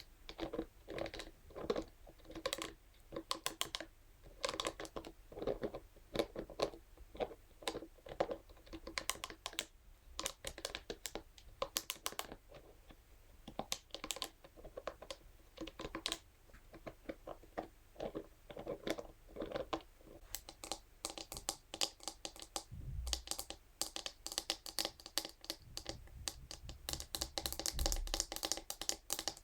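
Scalp massage brush tapping and scratching on hard surfaces: quick, irregular clicks like typing, turning into a denser, scratchier run near the end, with a few soft low bumps of handling.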